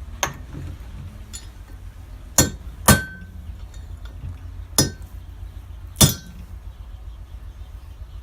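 Metal-on-metal strikes, five separate blows with a brief ring after each: a light one at the start, then four hard ones spread over the next few seconds. They sound like a hammer on steel parts.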